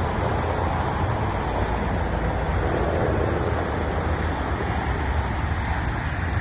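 Steady road and traffic noise: a continuous low rumble with an even hiss above it.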